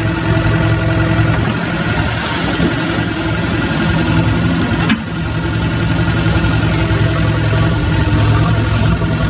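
An engine idling steadily with a low hum, briefly dipping about five seconds in.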